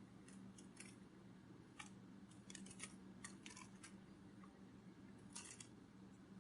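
Near silence: a low steady hum with faint, irregular clicks and ticks, some in quick little clusters, about a second, two and a half and five seconds in.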